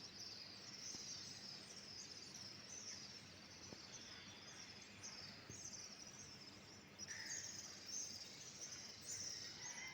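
Faint, repeated high chirping of birds, a call every half second to second, over a low outdoor hiss.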